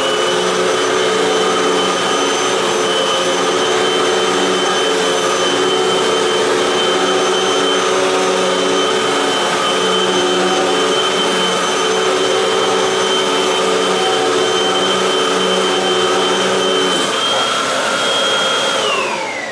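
Hoover WindTunnel 3 Max Pet Plus upright vacuum cleaner running steadily with a high motor whine over a lower pulsing hum. The hum drops out about seventeen seconds in, and near the end the motor is switched off and winds down, falling in pitch.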